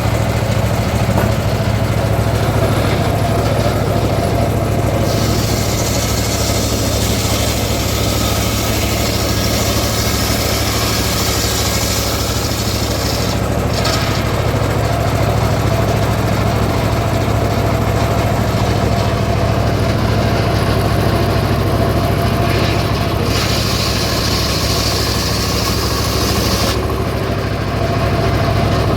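Engine of a homemade circular sawmill running steadily, with stretches of added hiss about five seconds in and again past twenty seconds, as the blade cuts through teak.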